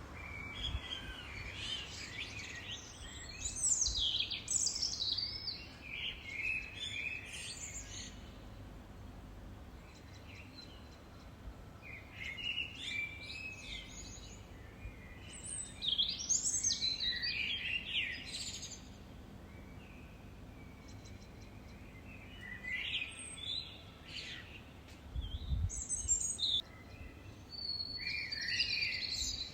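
Songbirds singing in bursts of rapid, high trilling and sweeping phrases, with pauses of a few seconds between them, over a steady faint background hiss.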